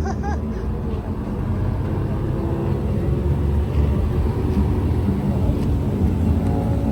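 Vehicle engines idling, a steady low rumble.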